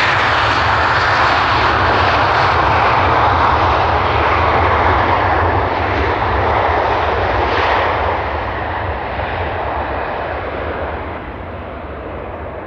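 Airliner taking off: loud engine noise that holds for the first several seconds, then fades away over the last few seconds into a low rumble.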